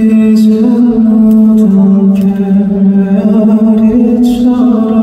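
Male singer holding long, slowly shifting sung notes in a live performance, with a few brief hissy hits in the background.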